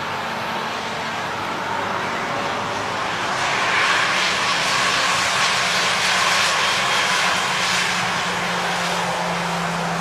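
Airbus A320 jet engines during a landing: a steady rushing noise with a low hum that swells to a peak midway and then eases off.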